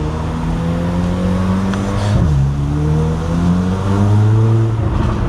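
C8 Corvette Z06's flat-plane-crank V8 with titanium exhaust accelerating. Its pitch climbs, drops sharply on an upshift about two seconds in, then climbs again before easing off near the end.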